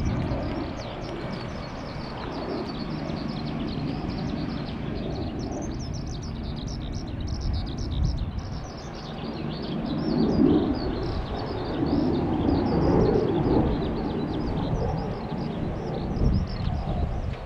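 Small birds chirping over a steady low rumble of outdoor background noise, with faint voices in the mix.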